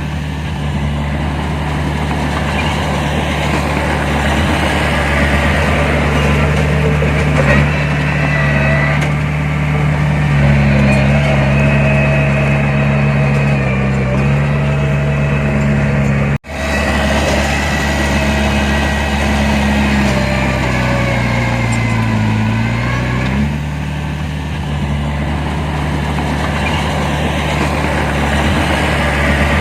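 Heavy diesel engine of earthmoving machinery running under load. The engine speed rises about ten seconds in and drops back about twenty-three seconds in. The sound cuts out for an instant about sixteen seconds in.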